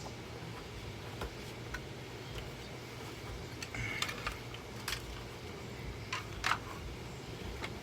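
Handling noise: a few scattered light clicks and knocks over a low steady background, the loudest knock about six and a half seconds in.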